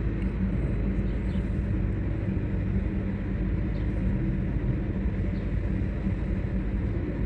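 Car engine idling, a steady low hum that stays even throughout.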